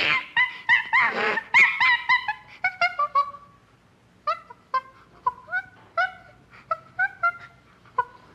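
An animal calling in a series of short, high-pitched yelps, quick and close together at first, then after a brief pause about two a second.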